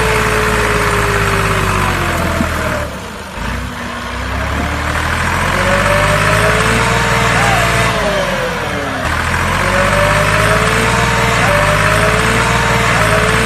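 A motor running steadily with a dense whirring noise, its pitch sliding up and down several times; it dips briefly about three seconds in.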